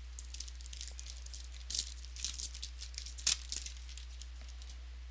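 Trading cards being handled and flicked through: a run of crisp clicks and rustles, loudest about two and three seconds in, over a steady low hum.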